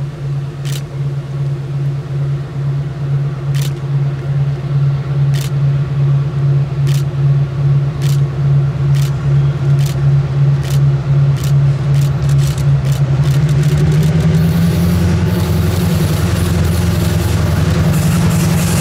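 Diesel locomotive engine throbbing steadily while the wheels click over a rail joint, the clicks coming faster and faster as the train gathers speed. About fourteen seconds in, the engine note rises and gets louder as it throttles up.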